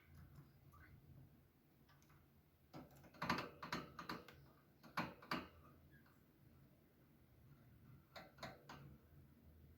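Quiet room with three short runs of light, sharp clicks and taps: a flurry about three seconds in, two taps about five seconds in, and a few more near the end.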